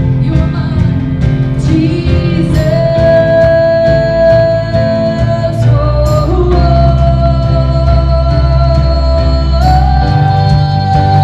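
Live worship band playing, with singing on long held notes that step up in pitch three times.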